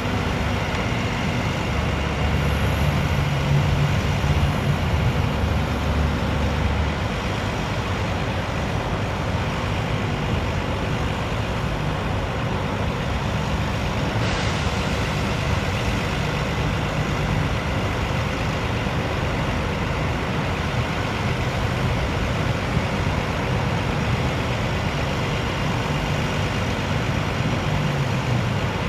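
International DT466 diesel engine of a 2005 International 7300 truck running steadily, with one brief click about halfway through.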